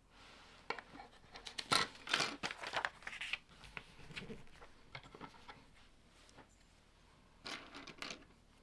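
Plastic Lego bricks being handled and pressed together: a run of sharp clicks and short rustles over the first few seconds, and another short burst near the end.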